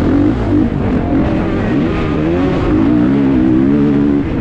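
Kawasaki KX450's single-cylinder four-stroke engine at race throttle. Its pitch drops briefly and climbs again twice, then rises and holds high.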